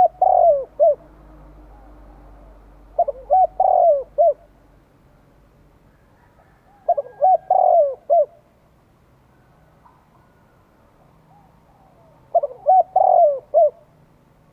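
Spotted dove cooing, the call a decoy bird gives to draw in wild doves. There are four phrases of several short coos each, a few seconds apart.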